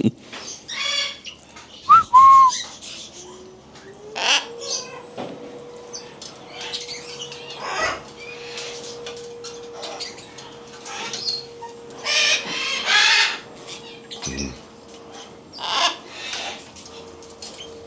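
Many caged pet birds squawking and chirping in short calls, overlapping one another. About two seconds in there are two loud sharp sounds and a brief whistle. A steady tone starts about four seconds in and holds to the end.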